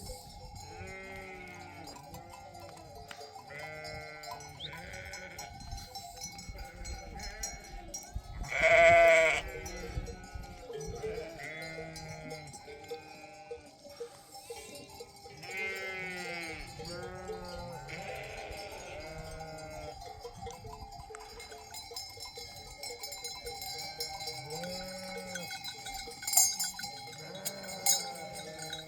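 A flock of sheep bleating, many overlapping quavering calls with one loud bleat about nine seconds in, while livestock bells ring steadily.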